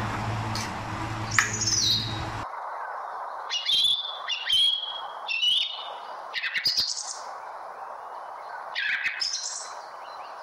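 Small birds chirping repeatedly in short calls that slide up and down in pitch. A steady low hum cuts off suddenly about two and a half seconds in.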